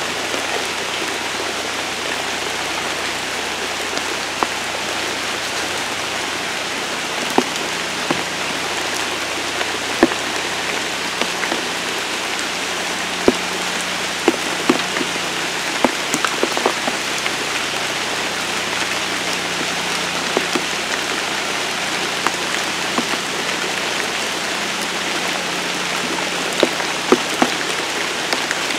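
Heavy rain falling steadily on wet ground and trees, with scattered sharp taps of drops landing close by.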